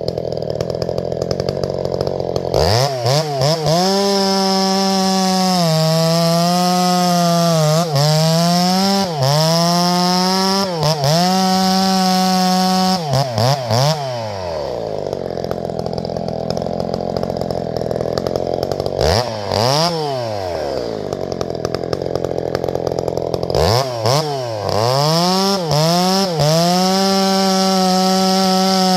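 Two-stroke chainsaw revved up from idle to full throttle, held high with repeated quick dips in engine speed, dropped back to idle about halfway, blipped once, then run up to full throttle again near the end.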